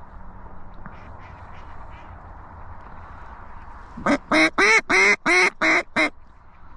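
A hand-blown mallard duck call sounding a run of seven loud, quick quacks about four seconds in, calling to ducks over the decoys. Low wind and field noise underneath.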